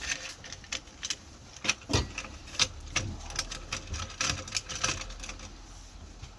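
Irregular clicks, taps and light knocks of bench drill parts being handled and fitted during assembly, the loudest knocks about two seconds in.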